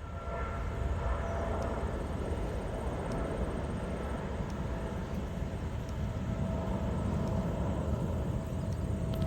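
Boeing 777 jet engines heard from a distance: a steady low rumble with a faint thin whine over it.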